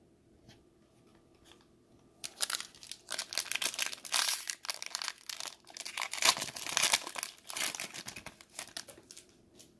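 Plastic wrapper of a trading card pack being torn open and crinkled, starting about two seconds in and dying down near the end.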